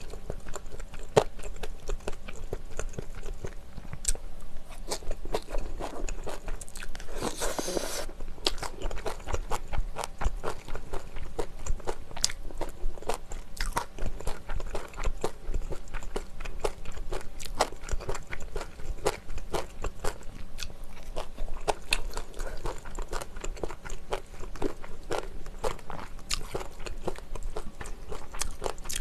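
Close-miked eating of spicy stir-fried mala xiang guo: steady wet chewing, biting and crunching with many small mouth clicks. A brief louder rushing sound comes about seven seconds in.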